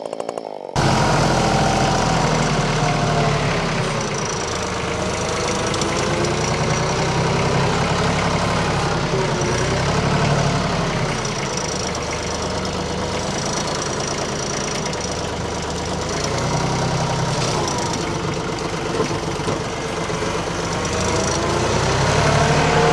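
Compact tractor's diesel engine running steadily, its pitch drifting up and down as it works under changing load.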